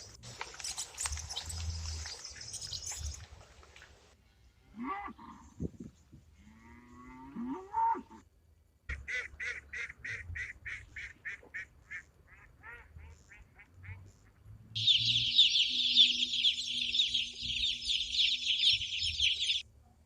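Domestic waterfowl calling in separate bursts: a few honking calls, then a run of rapid repeated calls at about four to five a second, then the loudest part, about five seconds of a dense high-pitched chorus that cuts off suddenly.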